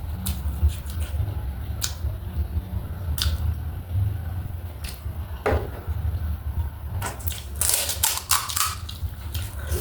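Close-miked eating: chewing and crunching of crisp snack food, a run of sharp crackles and clicks that is densest about seven to nine seconds in, over a steady low hum.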